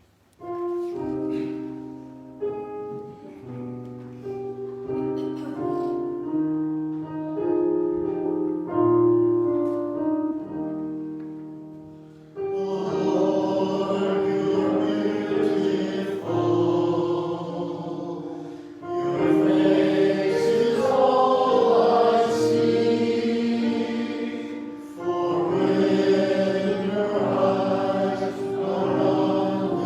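Church music: a hymn with an instrumental introduction for about the first twelve seconds, after which choir or congregation voices join in with fuller accompaniment.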